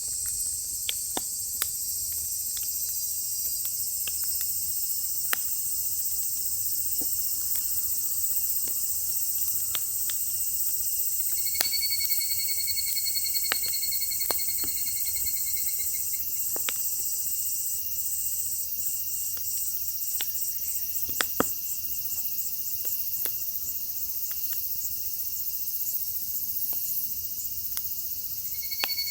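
Firewood crackling with scattered sharp pops as it burns in an open fire pit, under a steady high-pitched chorus of chirring insects. A lower, pulsing insect trill joins for about five seconds midway and again near the end.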